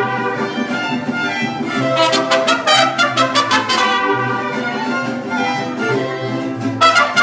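Mariachi band playing a lively tune, violins leading over a strummed rhythm and a stepping bass line.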